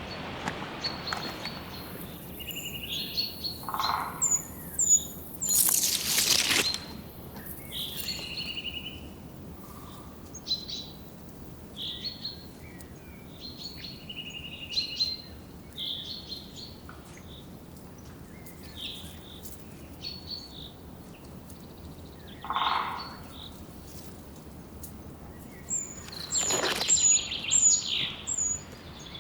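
Forest birds singing and calling, with many short chirps scattered throughout and twice a quick run of very high, thin notes. Two brief, louder rustling noises stand out, about six seconds in and again near the end.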